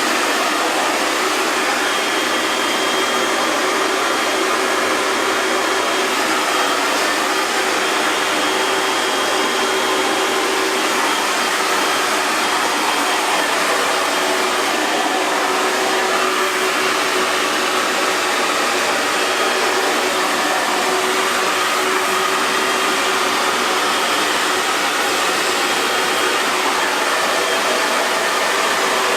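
Hair dryer blowing steadily, a constant airy rush with a faint steady motor whine.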